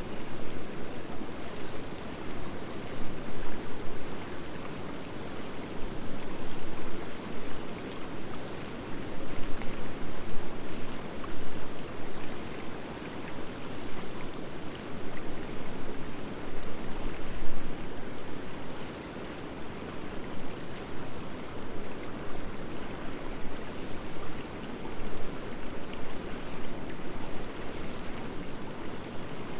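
Driftwood fire burning in a fire pit: a steady rushing noise that swells and eases, with scattered faint crackles.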